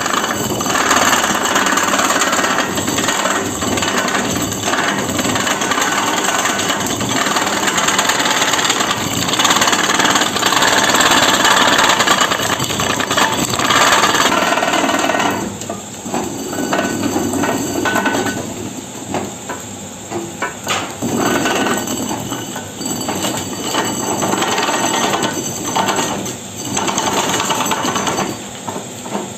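Loud workshop tool noise, a dense clatter of rapid striking. It eases and turns choppier about halfway through.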